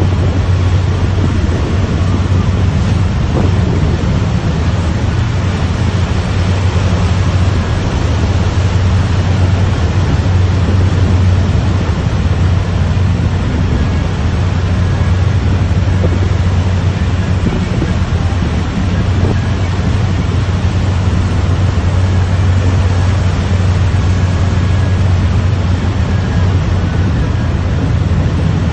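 A motor ship's engine droning steadily under a loud, even hiss of wind and sea in rough weather.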